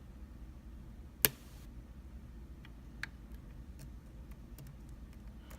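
Small metallic clicks of a lock pick working the pins of a lock: one sharp click about a second in, another near three seconds, then a few faint ticks.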